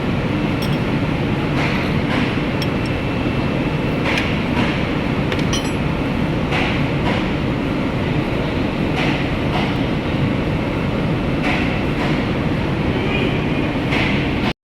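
Hand tools clinking and tapping against metal engine parts every second or two, over a steady low rumble of workshop background noise.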